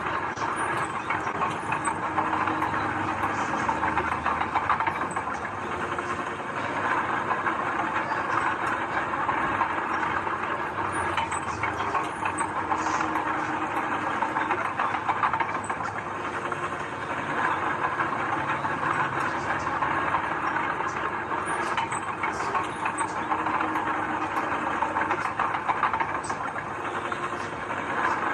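Heavy earthmoving machinery running steadily: a continuous diesel engine drone, with faint clicks scattered through.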